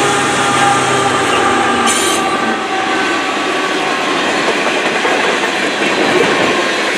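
Empty covered hopper grain cars rolling past on steel wheels: a steady rumble and clatter with faint wheel squeal. For about the first second, the low engine drone of the mid-train GE AC4400CW distributed-power locomotive fades out as it moves away.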